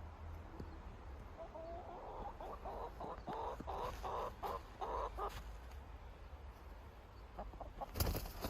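A chicken clucking, a run of short clucks over a few seconds. Near the end a sudden loud rustling noise starts.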